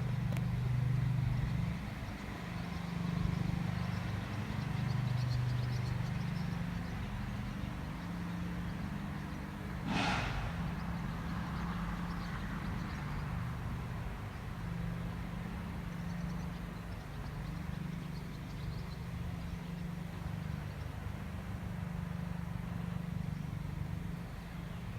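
Honey bee swarm buzzing in flight, a steady low hum that swells and fades as bees pass close to the microphone. A short sharp noise about ten seconds in.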